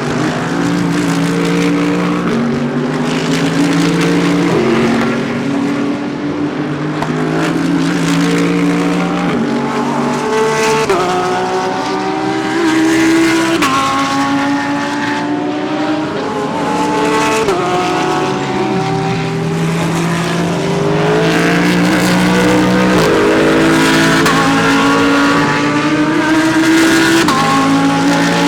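Several GT3 race cars accelerating in a group, their engine notes overlapping and each climbing in pitch then dropping back with every upshift.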